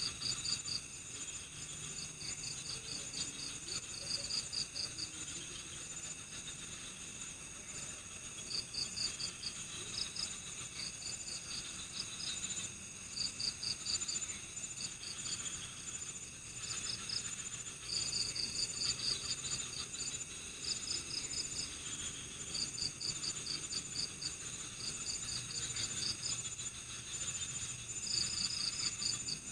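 Night-time insect chorus: crickets chirping in short trains of rapid pulses, repeating throughout over a steady high-pitched drone.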